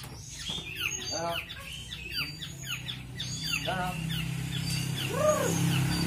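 Birds chirping repeatedly in short, quick falling notes, with a few lower, rounder calls in between. A low steady hum comes in underneath about halfway through.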